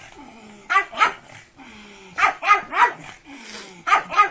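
Pug barking in short bursts: two barks, then three, then two more near the end.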